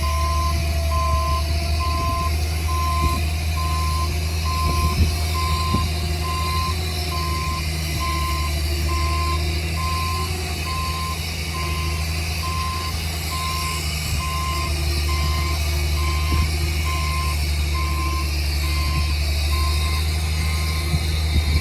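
Heavy diesel earthmoving machinery running steadily, with a reversing alarm giving a single high beep about once a second.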